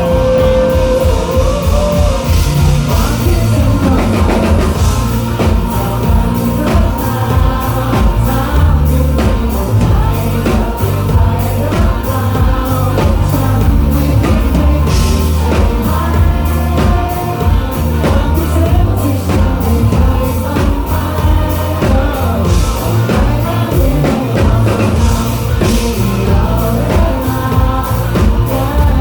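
Live rock band playing a song with singing: drum kit, bass and guitars under a sung vocal line, with a steady driving beat.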